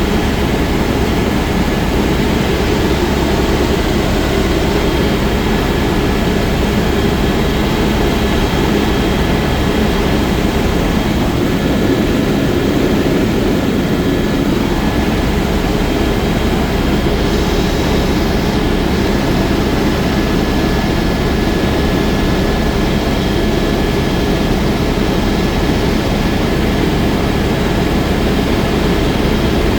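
Helicopter in flight, heard from on board: a steady, loud rotor and turbine engine noise with a thin, steady high whine running over it.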